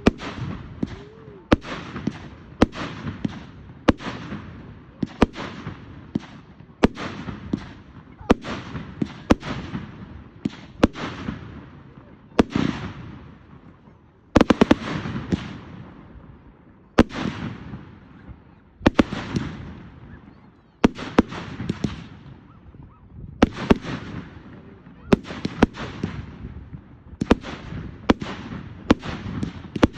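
Fireworks going off in quick succession, a little over one sharp bang a second, each followed by a fading crackle. The loudest bang comes about halfway through.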